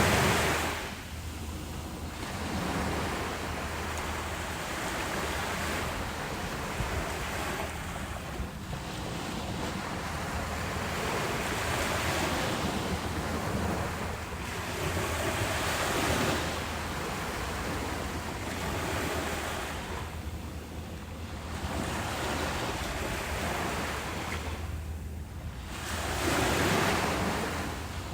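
Ocean waves breaking on a beach, surging and receding every few seconds. The loudest wave breaks right at the start, another swells up near the end, and there is some wind noise on the microphone.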